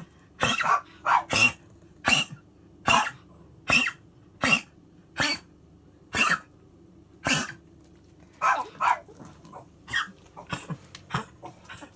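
A dog coughing over and over: a long run of short, loud coughs roughly every half-second to second, some coming in quick pairs.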